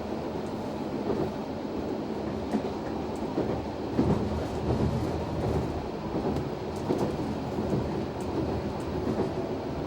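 Noto Railway NT100 diesel railcar running along the line, heard from inside the car: a steady engine and running drone with a few wheel clicks over the rail joints.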